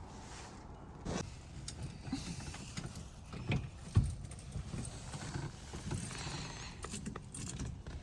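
Irregular clunks, knocks and key rattles from inside an antique Dodge as its ignition and controls are worked, the engine failing to start. The sharpest knock comes about halfway through.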